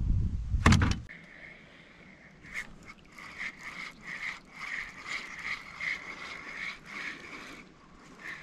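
Spinning fishing reel being cranked, a faint whirring of its gears that pulses about twice a second with each turn of the handle, as a fish is reeled in. A brief loud rustle comes first.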